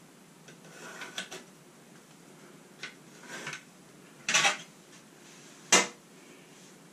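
Short scrapes and clicks of a pencil and a remodel plate against a tiled wall while the cut outline is marked. A louder scrape comes a little after four seconds, and a sharp click about a second and a half later.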